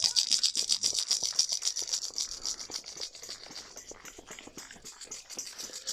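A hand-shaken Cuban rattle, a maraca-type shaker, rattling in quick shakes. It is loudest at first, dies down through the middle and picks up again at the very end.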